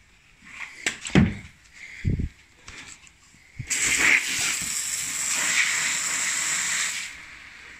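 Overcharged LiPo battery venting as it catches fire: a loud, even hiss of escaping gas starts about halfway through and lasts some three seconds before cutting off. A few short knocks come before it.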